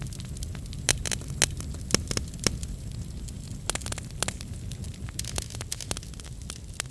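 Wood fire crackling in a fireplace: a low steady rumble of flames with irregular sharp pops and snaps, a few louder ones in the first few seconds.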